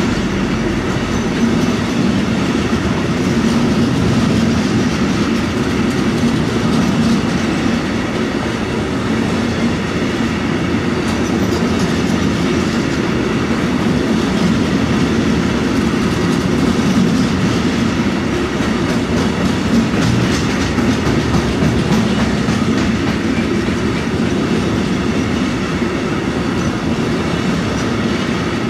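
Freight train of empty container flat wagons rolling past at a steady speed: a continuous rumble and rattle of steel wheels on the rails.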